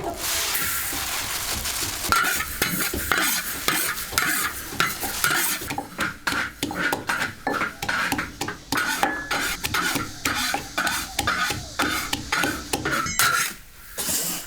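Food sizzling in a hot pan while being stir-fried. A steady sizzle for the first couple of seconds gives way to a utensil scraping the pan in quick repeated strokes, a few a second.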